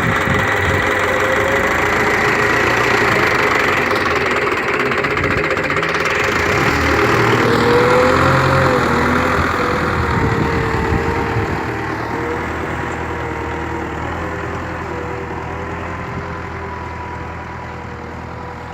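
Tractor engine running steadily, then gradually getting quieter over the last several seconds.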